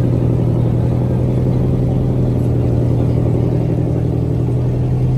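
Car engine idling steadily, a low even drone that holds one pitch throughout.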